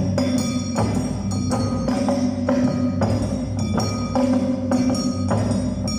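Live Awa Odori music: a metal hand gong (kane) struck in a steady beat, about two to three ringing strikes a second, over drums.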